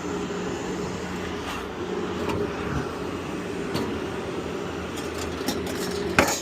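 Vehicle engine idling, a steady low hum, with a sharp clank of something being dropped about six seconds in.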